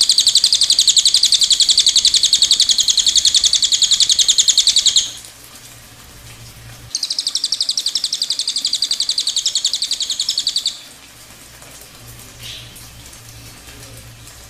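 Cililin bird singing its dense, rapid-fire 'tembakan' trill, a high rattling run of fast pulses. It runs for about five seconds, breaks off, then comes again for nearly four seconds.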